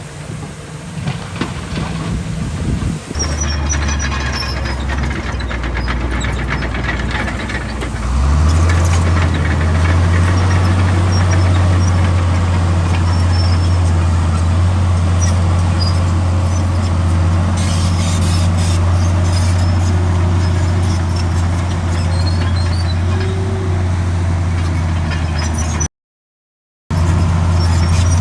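Heavy diesel earthmoving machinery running at a site, with a low, steady engine note that gets louder and heavier about eight seconds in and holds, and faint squeaks over it. The sound cuts out completely for about a second near the end, then resumes.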